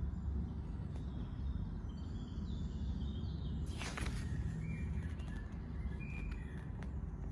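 Birds chirping in short calls over a steady low background hum, with a brief rustling noise about four seconds in.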